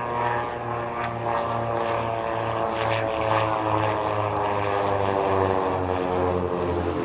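Cessna 336 Skymaster's twin push-pull piston engines and propellers droning in a flypast, the pitch falling slowly as the plane passes. The low drone pulses about once a second.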